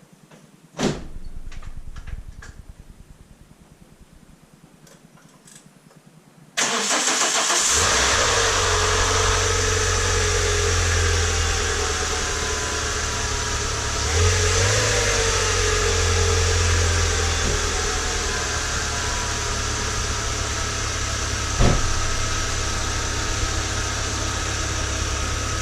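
Renault Scenic RX4's F4R four-cylinder petrol engine started for the first time after its dephaser (cam phaser) pulley was replaced: a short noise about a second in, then it cranks, catches about seven seconds in and settles into a steady idle, with a brief rise in revs midway.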